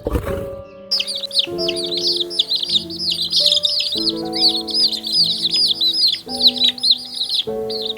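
A dense chorus of many small birds chirping rapidly and overlapping, starting about a second in, over soft background music.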